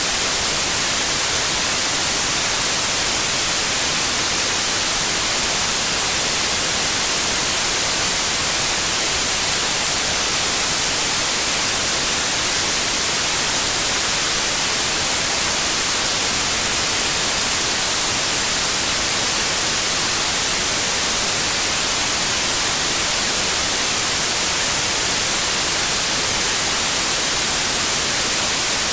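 Continuous white noise: an even, steady hiss, brightest in the treble, with no changes in level.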